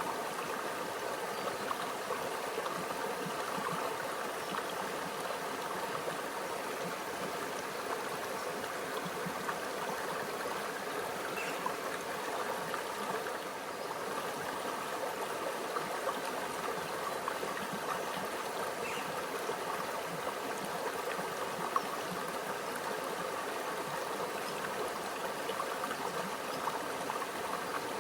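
A small stream running and babbling over rocks, a steady, even rush of water with fine gurgles throughout.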